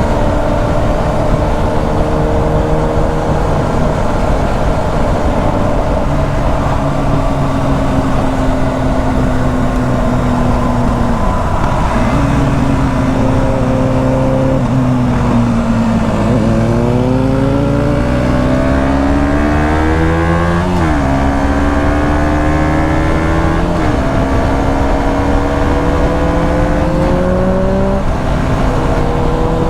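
KTM 125 Duke's single-cylinder four-stroke engine under way: it runs at a steady, slowly falling pitch as the bike eases off, then from about halfway it accelerates, the pitch climbing and dropping back sharply with three upshifts in the last third.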